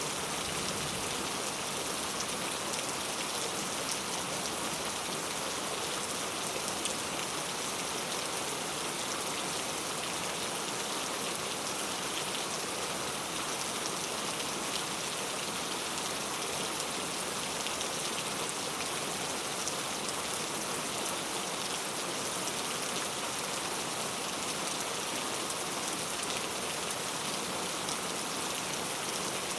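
Heavy rain falling steadily on street surfaces, a dense even patter with no letup.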